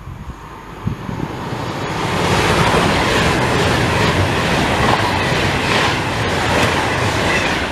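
A train passing close by on the main line: the rush and rail clatter of the train build up over the first two seconds, hold loud, and begin to fade near the end.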